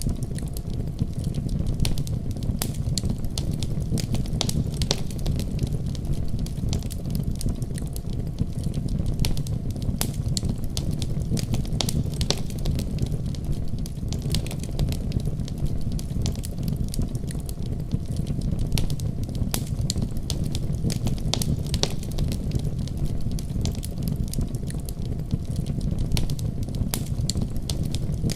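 Wood fire crackling, with frequent small sharp pops at irregular intervals, over a steady deep rumble of snowstorm wind.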